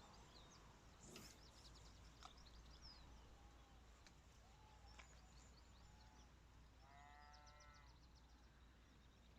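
Near silence at a riverbank: faint scattered bird chirps, a few faint ticks, and about seven seconds in one short, faint distant animal call.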